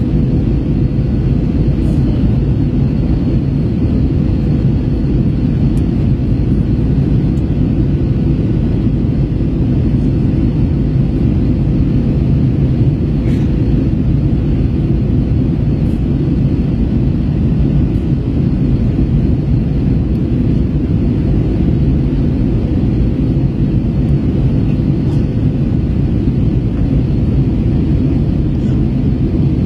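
Steady in-flight cabin drone of an Airbus A321 on approach descent: a low, even rumble of engine and airflow noise with a faint steady hum.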